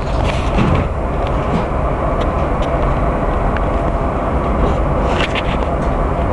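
Washington Metro Orange Line train running underground: a steady, loud, low rumble with scattered clicks, and a cluster of sharp clicks about five seconds in.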